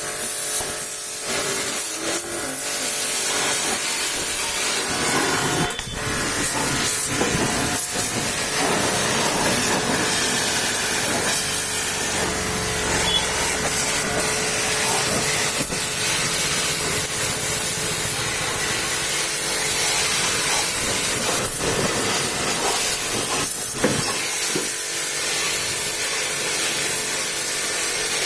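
Steady hiss of a high-pressure water spray from a washer jet.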